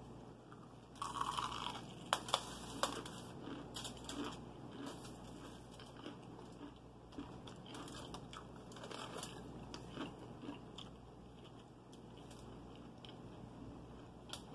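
Close-up biting and chewing of crispy fried chicken: a crunchy bite about a second in, a few sharp crunches just after, then steady wet chewing sounds.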